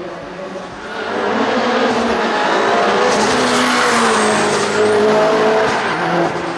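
Mitsubishi Lancer Evolution VIII hillclimb car with a tuned 2-litre turbocharged four-cylinder, running hard at full throttle. The engine note swells about a second in, and its pitch climbs and drops back several times as it shifts up through the gears.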